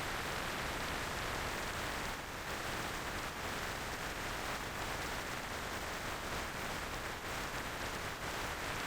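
Steady wind rush on the microphone of a motorcycle rider on the move, an even hiss with no engine note standing out.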